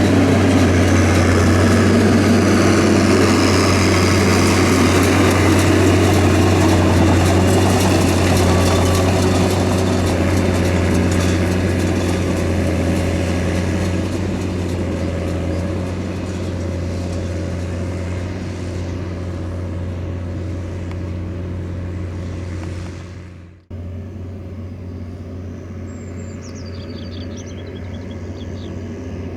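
Big diesel farm-machinery engine running steadily under load, gradually growing quieter over the second half. A cut near the end brings in a quieter engine drone, with a few faint high chirps over it.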